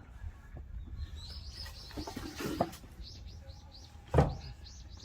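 A bird chirping: a few short high notes, then from about three seconds in a quick run of repeated high chirps, several a second. Under it come a few knocks and, about four seconds in, one loud heavy thud, the loudest sound, as firewood logs are handled and stacked.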